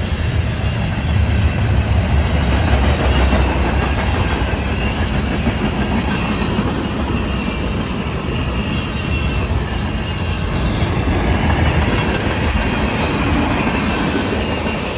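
BNSF grain train rolling past at close range: a loud, steady noise of steel wheels on rail, heaviest in the low end, with faint thin squealing tones.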